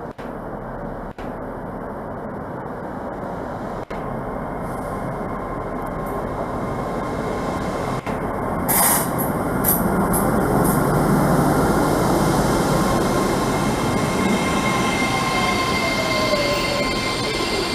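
A train running through the station, its noise building to a peak about ten seconds in. There is a brief high hiss about nine seconds in and a falling whine near the end.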